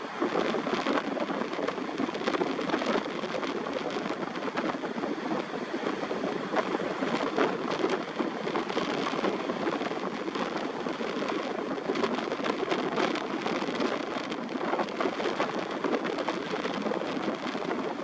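Strong sea wind buffeting the microphone over heavy surf: a steady rushing noise full of short crackles.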